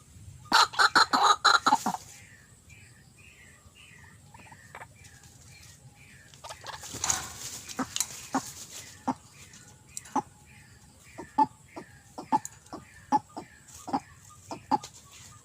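White-breasted waterhen calling: a fast run of loud, harsh repeated notes in the first two seconds, then short sharp notes repeated roughly every half second. A brief rush of noise comes about seven seconds in.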